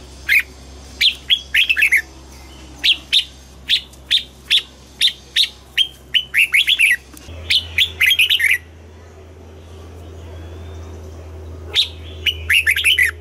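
Red-whiskered bulbul singing: quick runs of short, loud whistled notes, then a pause of about three seconds before another burst of notes near the end.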